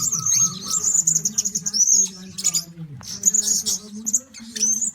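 Blue-crowned hanging parrots giving rapid, shrill high-pitched chirps and short trills, repeated in quick runs with brief gaps.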